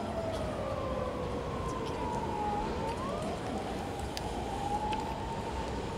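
Electric train running past, its motor whine gliding down in pitch and then rising again a little after halfway through, over a steady rumble.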